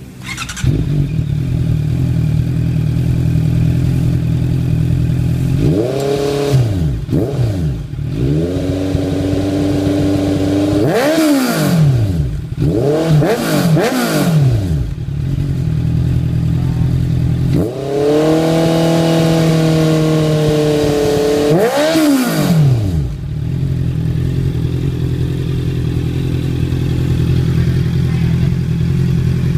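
Honda CBR650F inline-four motorcycle engine through a titanium slip-on exhaust, idling and then blipped repeatedly in free revs: a few short rev sweeps, one held rev of a few seconds, another blip, and back to a steady idle.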